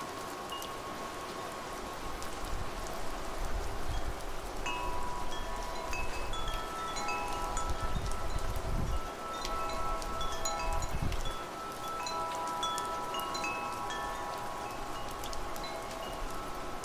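Wind chimes ringing in a breeze, several overlapping sustained tones with lighter, higher strikes among them, over a steady hiss of rain. Low wind gusts swell from about two seconds in and ease off past the middle.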